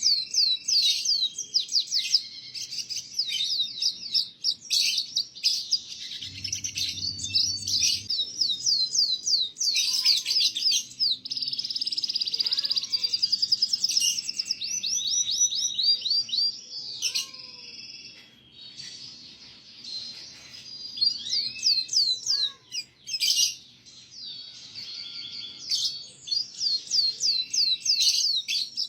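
Domestic canary singing a long song of fast trills and rapid repeated high notes, as used in a masteran song-training recording for young canaries. A brief low rumble comes in about six seconds in.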